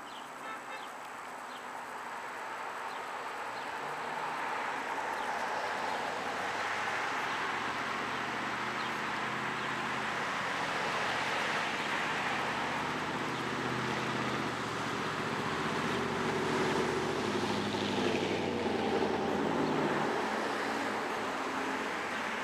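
An engine passing by: its hum builds over several seconds, holds, then drops in pitch and fades near the end.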